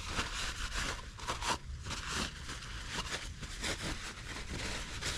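Paper towels rubbing and scraping as old oil is wiped off a Toyota Tundra's cartridge oil filter housing, in short, irregular rustling strokes.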